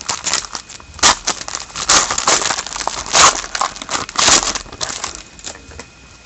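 Trading card pack being opened and handled: a crinkling wrapper and cards rustling and sliding against each other in a series of short scraping bursts that die down near the end.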